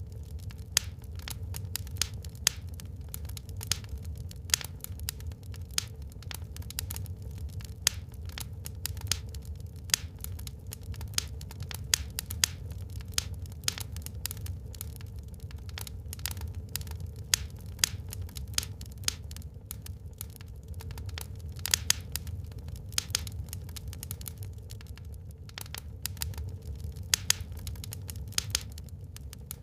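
Burning wood in a fireplace crackling, with frequent irregular sharp pops and snaps over a steady low rumble.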